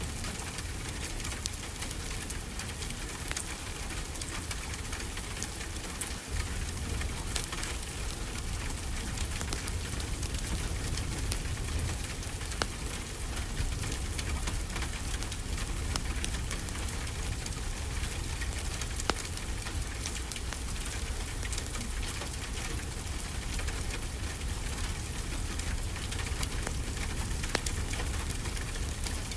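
Steady rainfall with the crackle of a wood fire mixed in: an even hiss of rain broken by scattered sharp pops and clicks, a couple of them louder than the rest.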